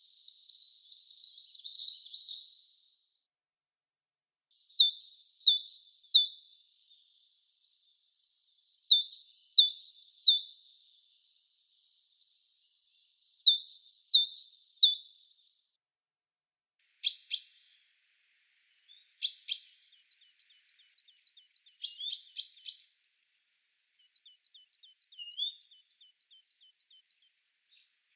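Small songbirds singing. A rapid, high-pitched song phrase about two seconds long repeats four times, with pauses between. From about halfway on come shorter sharp calls, dry rattling trills and single high notes.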